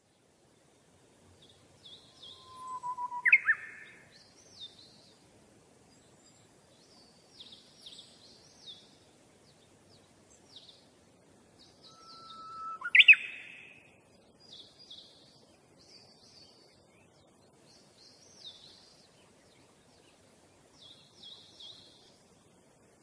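Birdsong: many small birds twittering in short high chirps. A louder whistled call, a level note that breaks into a sharp higher note, comes twice, about three seconds in and again about thirteen seconds in.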